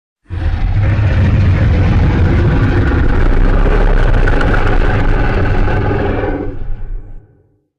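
Custom-made monster roar sound effect: one deep, rumbling roar that starts suddenly, holds for about seven seconds and fades out near the end.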